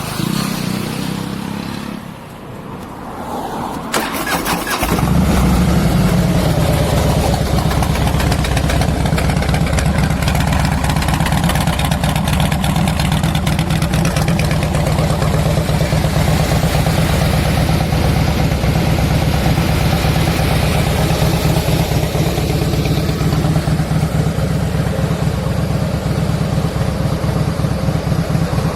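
Harley-Davidson Fat Boy V-twin with Vance & Hines fishtail exhaust being started: a click about four seconds in, the engine catches about a second later, then runs steadily at idle.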